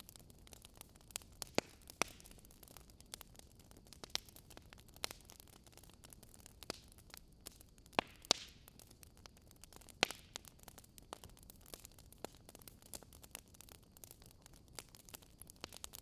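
Faint scattered clicks and soft crackles over a steady low hiss, with a brief rustle about eight seconds in.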